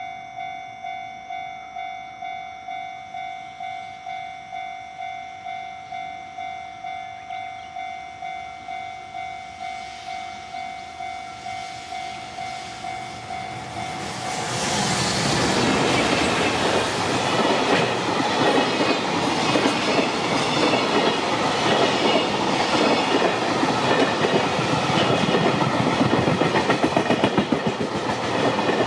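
A warning tone rings steadily about twice a second, typical of a Japanese level-crossing alarm. About halfway through, a JR Freight EF210 electric locomotive and its container wagons arrive and pass close by, much louder, with the rhythmic clickety-clack of wheels over rail joints.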